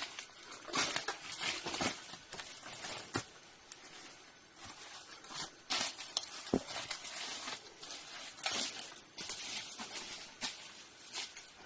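Irregular rustling and crackling, like dry leaves or plant material being disturbed, with a few sharp clicks.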